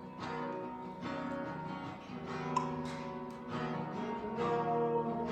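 Acoustic guitar strumming chords in a worship song, a new strum about once a second, with no singing.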